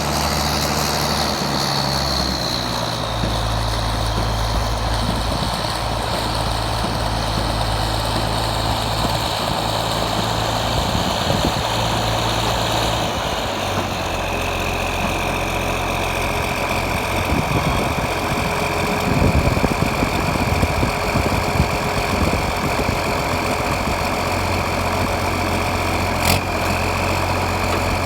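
Heavy vehicle engine running steadily. Its speed shifts about three seconds in and again about halfway through, and a high steady whine comes in from about halfway on. A single sharp knock comes near the end.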